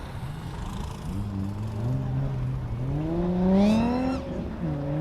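A drifting car's engine revving, its pitch climbing steadily over about three seconds with a brief high squeal at the peak. It then drops and holds steady near the end.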